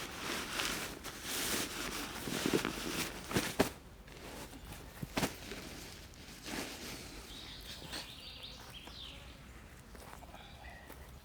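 Footsteps and rustling on the forest floor for the first few seconds, with a couple of sharp knocks. Then it goes quieter, with faint bird chirps.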